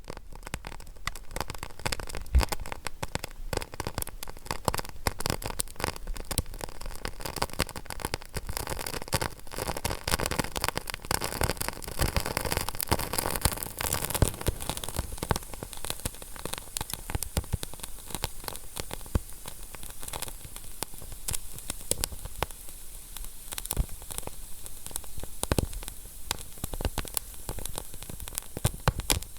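Wood fire crackling in a fireplace: dense, irregular crackles over a steady hiss, with a few sharper pops here and there.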